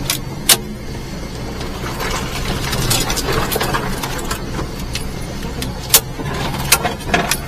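Kei mini truck's small three-cylinder engine running steadily while driving. Several sharp knocks cut through it: one about half a second in and three near the end.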